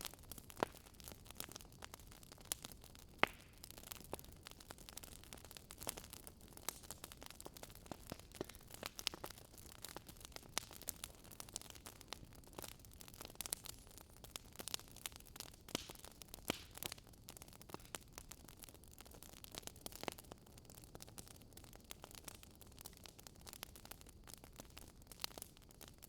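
Campfire crackling softly as wood burns: a faint steady hiss scattered with irregular snaps and pops.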